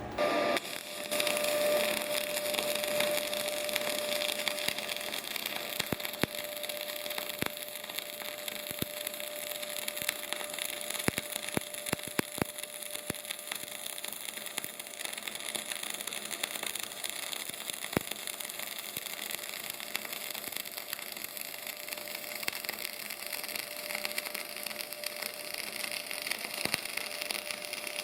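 Semi-automatic CO2 welding arc, struck just after the start and then running continuously: a steady frying crackle with frequent sharp spatter pops.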